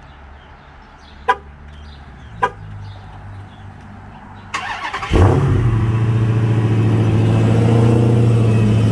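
Dodge Challenger SRT Hellcat's supercharged 6.2-litre HEMI V8 cold-starting on its stock exhaust: two short clicks, then a brief crank about four and a half seconds in, and the engine fires with a loud blip and settles into a steady, loud high idle.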